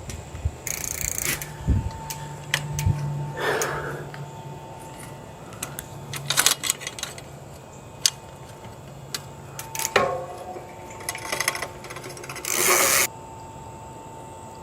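Metal clicks and light rattling from bicycle parts and tools being handled, with a few short hissing bursts, the longest and loudest near the end.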